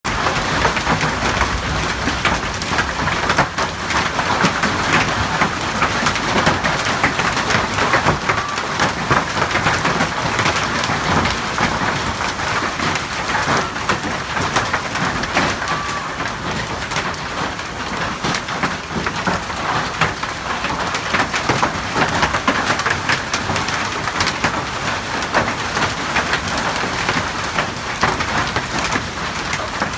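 Hailstorm: hailstones and rain pelting down on a surface in a dense, steady patter, with many sharp ticks from individual hail strikes.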